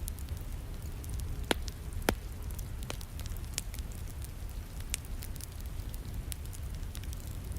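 Wood fire crackling in a fireplace, sharp pops scattered through it with two louder ones about one and a half and two seconds in, over a steady low rumble and the hiss of rain.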